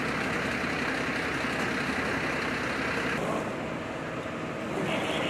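Fire engine's engine idling steadily; about three seconds in the sound cuts abruptly to a quieter, duller engine hum.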